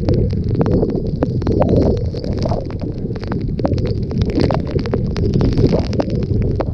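Hurricane wind buffeting the microphone in a heavy, continuous rumble, with a dense, irregular scatter of sharp clicks and ticks throughout.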